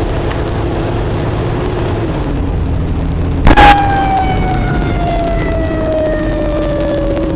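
Fire engine responding, heard from inside the cab: steady engine and road rumble, a short loud blast about three and a half seconds in, then the siren winding down, its pitch slowly falling.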